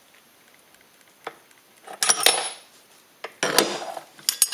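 Small steel machining tooling handled by hand: a click about a second in, then two short bouts of metallic clattering and scraping, and a few quick clinks near the end.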